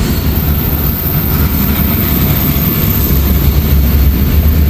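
Freight train approaching with its diesel locomotives running: a steady low rumble that slowly grows louder.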